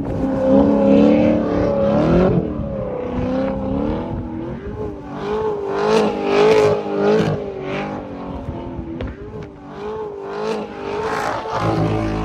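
A car engine revving, its pitch wavering up and down repeatedly over rough, surging noise.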